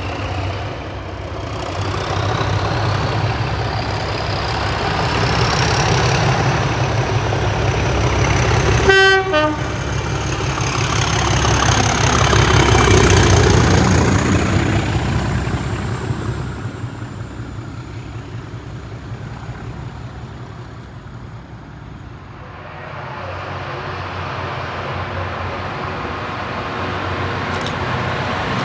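A train running through, with a short horn toot about nine seconds in. A whine rises in pitch as the sound builds to its loudest around the middle, fades away, then starts building again near the end.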